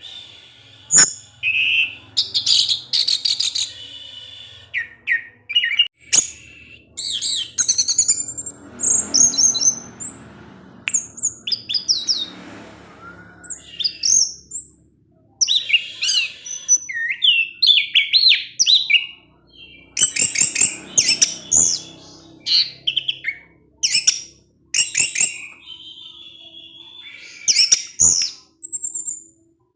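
Orange-headed thrush singing a rapid, varied song of short whistled phrases and chirps, broken by brief pauses.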